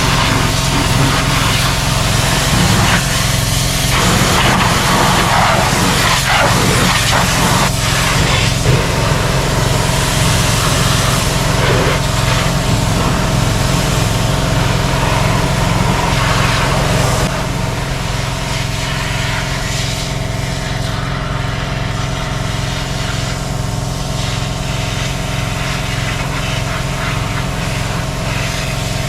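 An engine running steadily with a regular low pulse. About two-thirds of the way through the level drops a little and a higher hiss fades out, leaving the engine alone.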